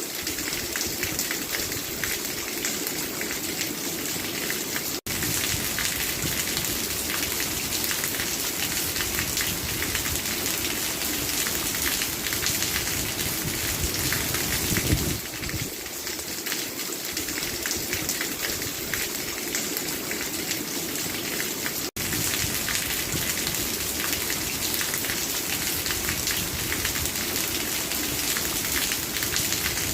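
Steady, heavy rainfall: a dense patter of drops. It cuts out for an instant twice.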